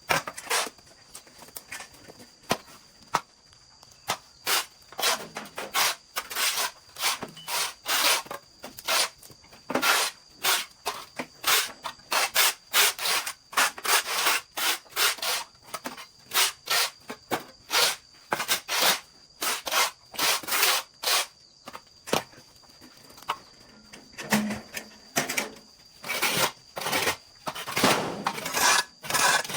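Hand sawing: irregular rasping strokes, about one to two a second, with short pauses between runs. A faint steady high tone sits underneath.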